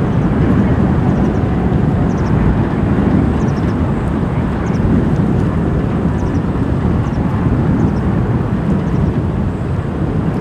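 Airbus A350-900's Rolls-Royce Trent XWB turbofans at takeoff thrust: a loud, steady jet roar.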